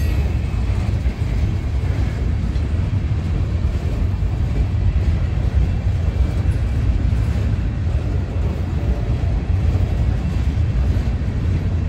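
Freight train of steel scrap-metal gondola cars, which the uploader believes are empty, rolling past: a steady low rumble of wheels on rail.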